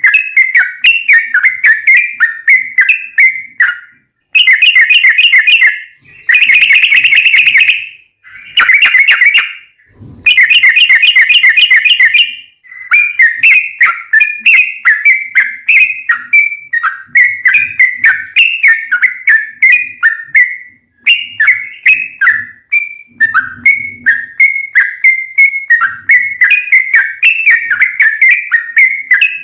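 Yellow-vented bulbul (trucukan) singing in quick, bubbly chattering phrases. From about 4 to 12 s the phrases give way to several dense, very fast trilled runs, the long 'ropel' the song is prized for.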